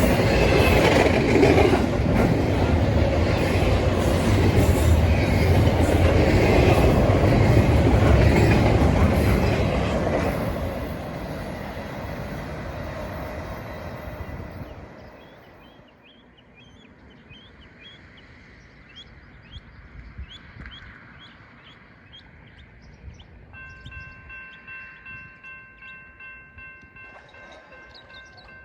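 A train rolling past on the rails, loud at first, then fading away over about fifteen seconds. Afterwards only faint chirps and a thin steady tone remain.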